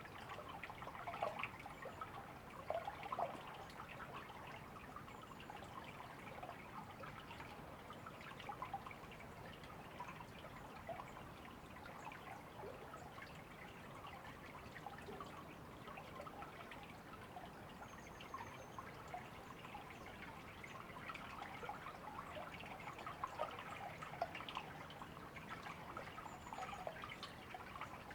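A small river or stream trickling and babbling over stones, a steady stream of small splashing plinks. A couple of faint, high bird chirps come in near the middle and near the end.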